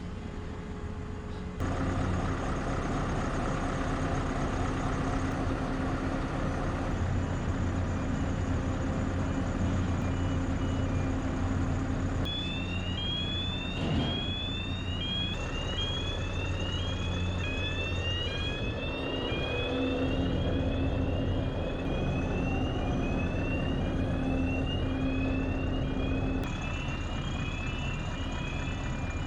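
Heavy diesel engine running steadily. From about twelve seconds in, an electronic warning beeper sounds a quick run of short rising chirps, with a single knock shortly after it starts.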